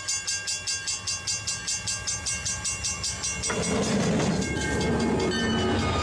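Passing train: rapid, even clatter of wheels over the rail joints, about five beats a second. About three and a half seconds in it gives way to a louder, steady rushing noise.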